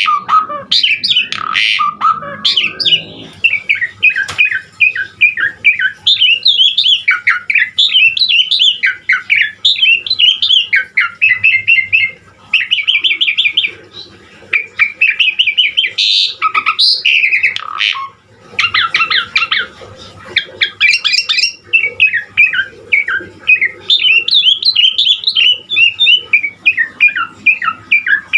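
Javan pied starling singing a long, unbroken song of rapid, ever-changing whistled and chattering phrases.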